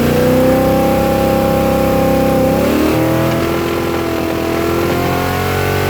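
V8 engine running hard at high revs: its pitch climbs to a held note, then drops to a lower steady note about three seconds in.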